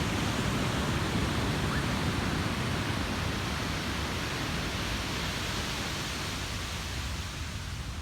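Ocean surf washing onto a beach, a steady rushing hiss that slowly fades as a wave recedes, with wind on the microphone.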